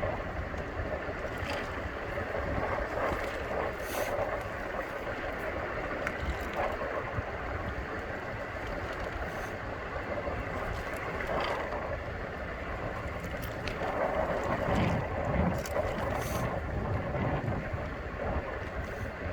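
Steady wind noise and rolling rumble while riding a Bird electric scooter, with a few faint light clicks.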